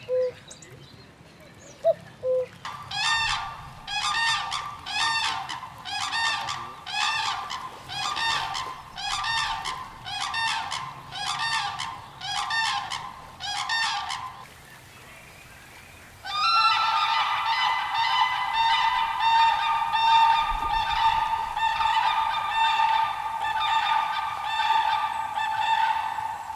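A bird at a pond giving a long series of loud calls, a little more than one a second, then after a short pause a faster, almost unbroken run of calls. A few short chirps come just before.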